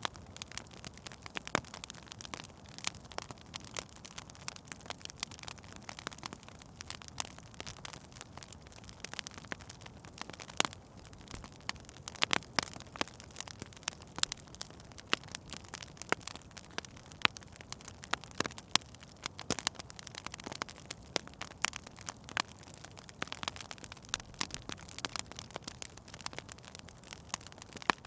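Wood fire burning in a fireplace: irregular sharp crackles and pops from the burning logs over a soft steady hiss.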